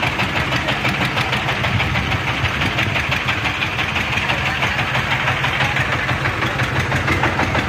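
Mahindra Turbo 595 tractor's diesel engine running steadily with a fast, even chugging.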